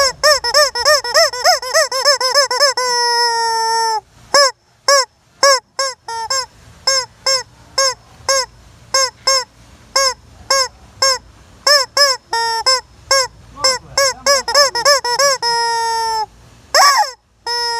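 Squeezed rubber screaming-chicken toy: a long, wavering squawk, then a run of short squeaks about two a second, and long held squawks again near the end.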